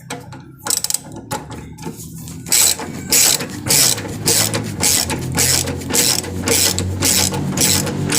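Ratchet wrench clicking as a front stabilizer-link fastener is run down to seat before final tightening: a few scattered clicks at first, then steady strokes about two a second from about two and a half seconds in.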